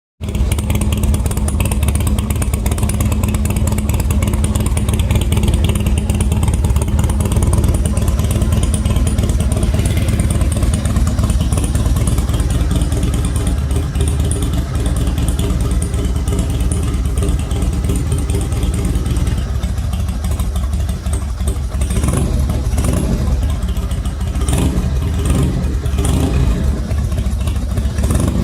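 Harley-Davidson Twin Cam 88 V-twin idling steadily through a Bassani Road Rage 2-into-1 exhaust while warming up. The note shifts a little about two-thirds of the way in, and a few sharp clicks come near the end.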